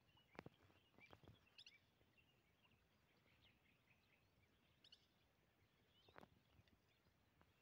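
Near silence: faint, scattered bird chirps over quiet outdoor background, with a few soft clicks.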